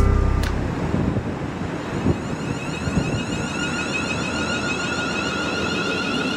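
A train running on the line: a steady rushing noise, joined about halfway by high whining tones that pulse.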